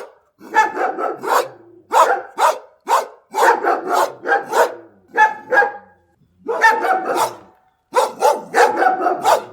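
Dogs barking loudly and repeatedly in quick volleys of short, sharp barks, with a brief pause around six seconds in.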